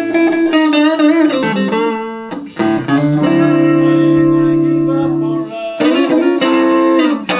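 Electric guitar, a Telecaster through a Roland JC-120 amp, played solo: a run of single notes with string bends, then a chord left ringing for a couple of seconds before new notes are picked near the end.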